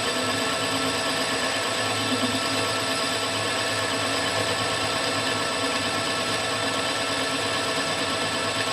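Milling machine running steadily, its motor and spindle whining with several steady tones while it machines a steel ram.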